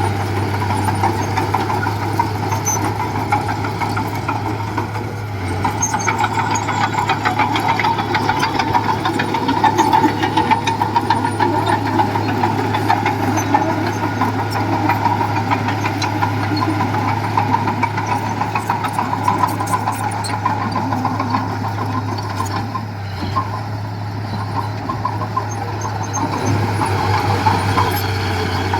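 Diesel engine of heavy construction machinery running steadily, with a fast even rattle over a deep hum and small rises and falls in power.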